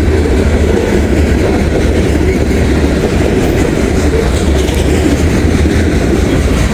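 Covered hopper cars of a heavy grain train rolling past close by: a loud, steady rumble of steel wheels on the rail.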